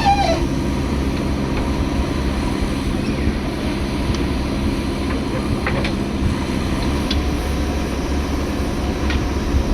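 JCB backhoe loader's diesel engine running steadily while it works, a low even drone, with a few faint knocks over it.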